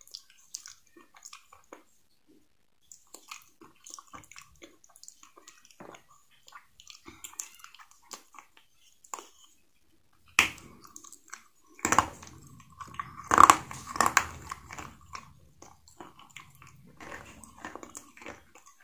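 Close-miked eating: crisp, crunchy bites and chewing, scattered and quiet at first, then louder and more frequent about halfway through, with the strongest crunches a few seconds after that.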